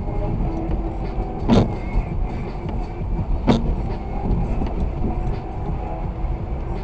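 Car driving, heard from inside: a steady low rumble of engine and road noise, with two sharp knocks, the first about a second and a half in and the second two seconds later.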